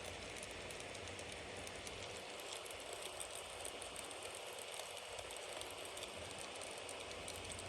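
Bonfire burning steadily, a continuous hiss with many small crackles and pops from the burning wood.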